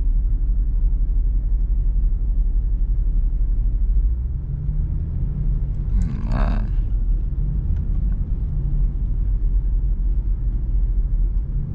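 Jeep Grand Cherokee SRT's 6.4-litre HEMI V8, with a muffler delete, cruising: a steady low exhaust drone mixed with road rumble. There is a brief hiss about six seconds in.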